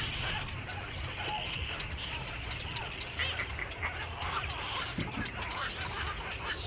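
Many birds calling at once: a dense chatter of short chirps and squawks overlapping throughout, over a low steady hum.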